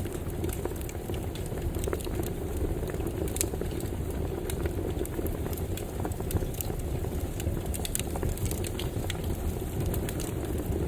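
Campfire burning steadily: a low rumble and hiss of the flames with frequent sharp, irregular crackles and pops from the burning wood.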